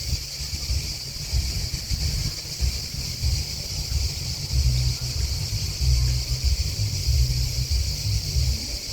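Steady, dense chorus of chirping grasshoppers and crickets. Uneven gusts of wind buffet the microphone underneath as a low rumble, and these gusts are the loudest part.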